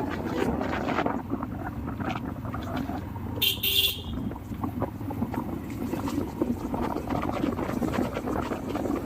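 Steady rumble of a vehicle on the move with wind on the microphone, and one short horn toot about three and a half seconds in.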